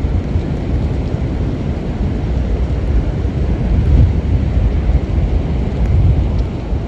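Storm wind buffeting the microphone: a loud, low rumbling roar that swells and dips, strongest about four seconds in.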